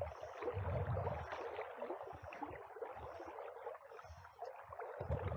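River water running and gurgling, with irregular low rumbles that are strongest about a second in and again near the end.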